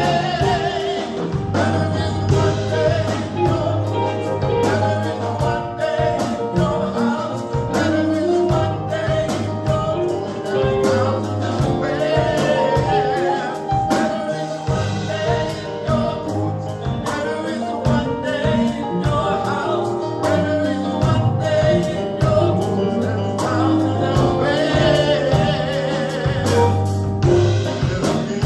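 Live gospel praise band playing with singers, a steady beat of drums and bass under the voices.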